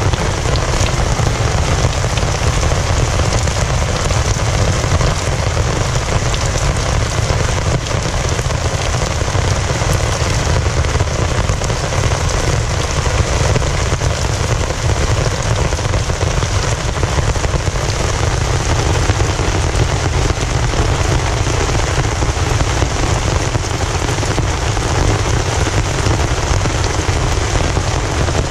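Heavy rain falling steadily, a dense hiss with a deep low rumble under it.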